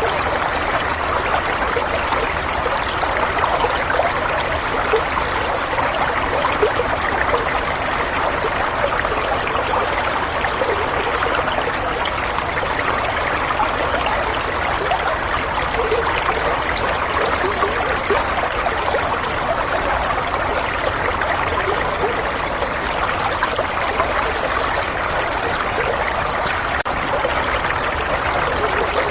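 Steady running water, like a stream or a tap trickling, flowing evenly with a bright splashing rush and no change.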